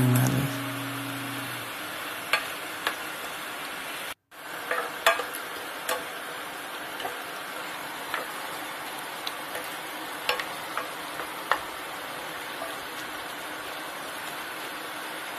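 Chinese broccoli (kailan) and white beech mushrooms sizzling steadily in a hot pan as a spatula stir-fries them, with scattered sharp taps and scrapes of the spatula against the pan. The sound cuts out for a moment about four seconds in.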